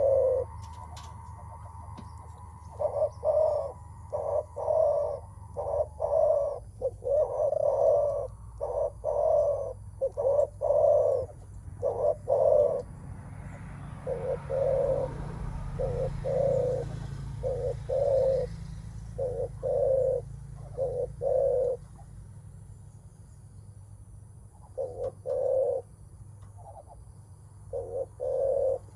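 Spotted dove (terkukur) cooing over and over in phrases of short, low notes, with a pause about three-quarters of the way through. This is the 'menguku' coo, usually given by a male on meeting a rival, ready to contest strength.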